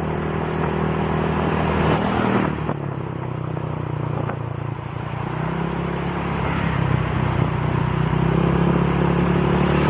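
Honda Click scooter's single-cylinder engine running through an aftermarket exhaust pipe while riding, with wind rushing over the microphone. The engine eases off about three seconds in and picks up again over the following seconds.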